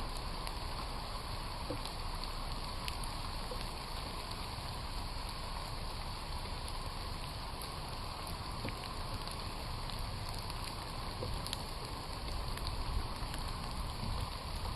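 Steady rain falling through the forest, with scattered single drops ticking close by over a low rumble.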